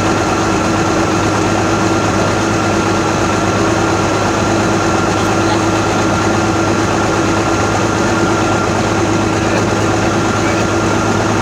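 Old truck's engine idling steadily just after a cold start at about 14 °F with no block heater plugged in, warming up.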